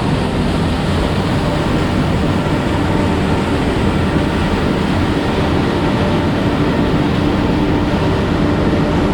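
Loud, steady rush of fast-flowing mountain creek water.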